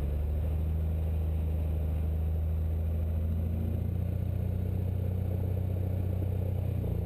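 Cessna 172's piston engine and propeller at takeoff power, a steady low engine note that rises as the throttle goes in at the start and then holds even.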